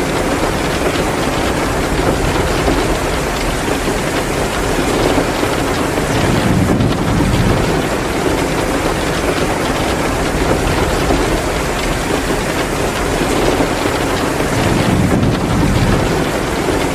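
Heavy rain pouring down, a steady dense hiss that swells a little twice, layered with a wood fire crackling in a fireplace.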